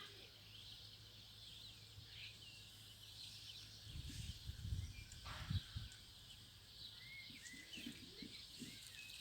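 Faint birds chirping and twittering in short calls throughout, over a steady low hum. Some dull low thuds come in the middle.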